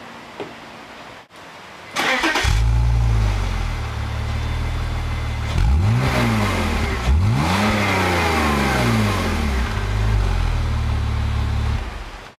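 BMW E36/E46 exhaust: the engine is started about two seconds in, catches and settles to a steady idle. It is then revved twice in quick blips that rise and fall in pitch, and idles again until the sound cuts off abruptly near the end.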